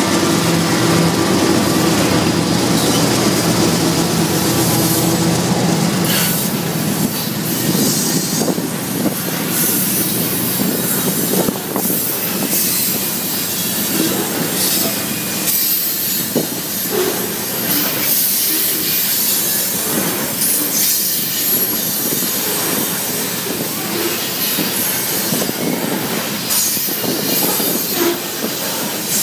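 Canadian Pacific diesel locomotives passing close by with a steady engine hum, giving way after about six seconds to the train's cars rolling past, wheels clattering over the rail joints with some wheel squeal.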